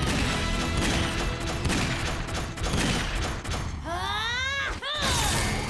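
Cartoon robot transformation sound effects: rapid mechanical clicking and whirring over background music, then a rising sweep about four seconds in.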